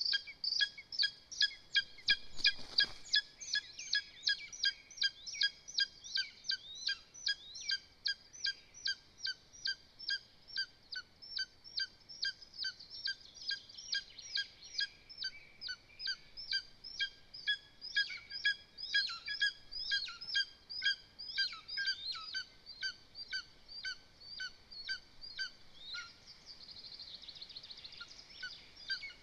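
Lesser spotted eagle giving a long run of short, high yelping calls, about two to three a second, with a brief rustle a couple of seconds in.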